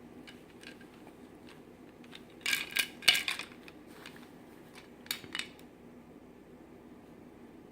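Spoon clinking and scraping against a dish: a few faint ticks, then two bursts of clatter about two and a half and five seconds in.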